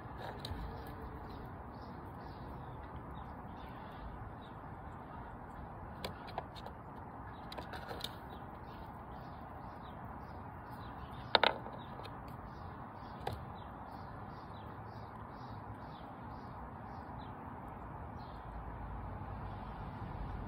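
Small birds chirping in the background, short high chirps repeating a few times a second, with a few sharp clicks; the loudest click comes about eleven seconds in.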